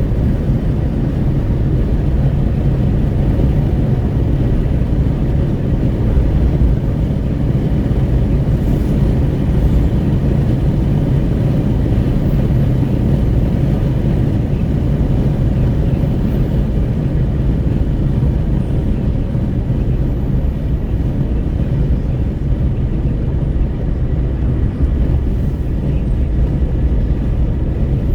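Steady road noise inside a moving Renault Kwid 1.0 cabin: a low rumble of tyres and the small three-cylinder engine under the rush of wind at the window.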